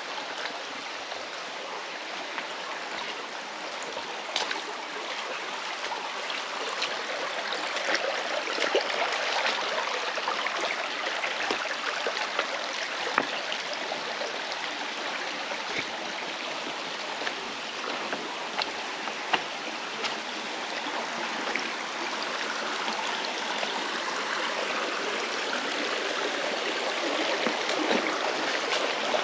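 Mountain stream rushing steadily through a gorge, a constant wash of water with occasional sharper splashes.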